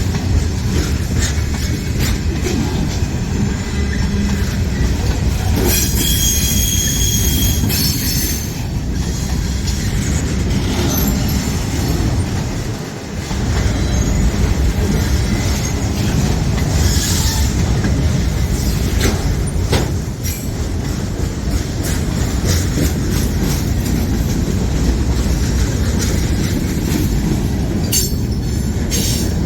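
Freight train rolling past: steady rumble of steel wheels on rail with repeated clicks over the rail joints, and a brief high wheel squeal about six seconds in.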